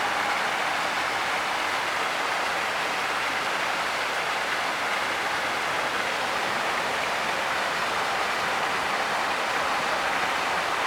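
Waterfall with water pouring and splashing in a steady, unbroken rush.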